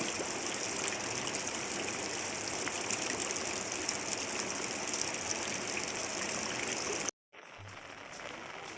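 Steady rushing of water, an even hiss with no rhythm, cutting off abruptly about seven seconds in and coming back as a quieter, thinner patter.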